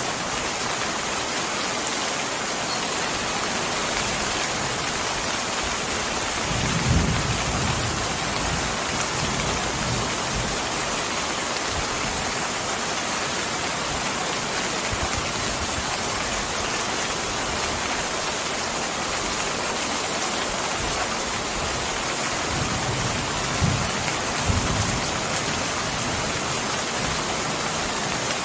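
Steady heavy rain, with two short low thunder rumbles: one about seven seconds in and another, in two swells, a little past two-thirds of the way through.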